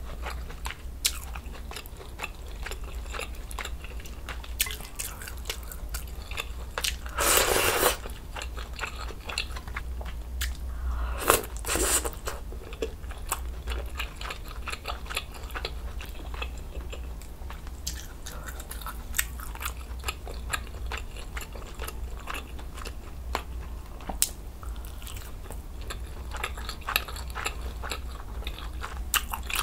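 Close-miked eating of budae jjigae (army stew): mouth chewing with many small wet clicks and smacks. Two louder bursts stand out, about seven and twelve seconds in.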